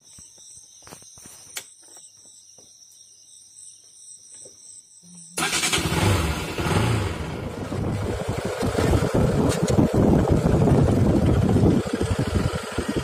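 A faint high whine and a few clicks, then a little past five seconds a motorcycle engine starts abruptly and keeps running loudly as the bike is ridden.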